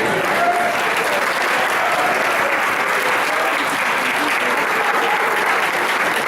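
Football crowd applauding: steady, dense clapping from many people, with a few voices mixed in.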